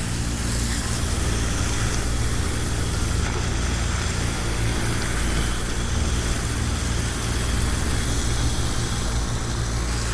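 Pressure washer running steadily: a low machine hum under a continuous hiss of spraying water.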